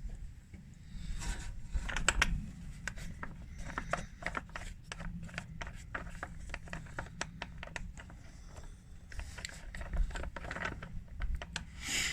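Irregular sharp clicks and short light scrapes over a low steady hum.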